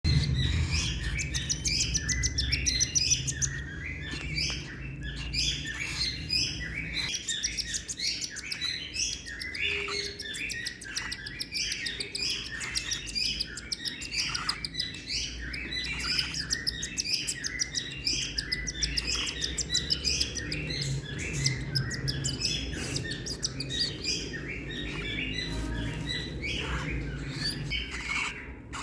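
Baby cockatiel chirping rapidly and without pause: the food-begging calls of a chick being hand-fed.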